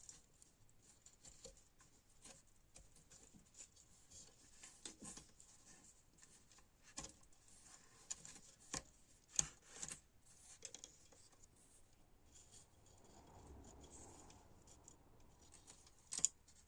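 Faint, scattered clicks and short scrapes of small hand work on parts, with a few sharper clicks around the middle and one near the end.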